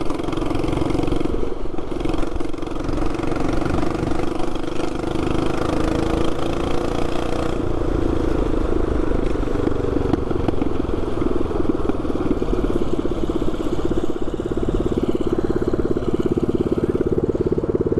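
224cc single-cylinder mini bike engine with a short straight-pipe exhaust, running steadily under way at a fairly even speed.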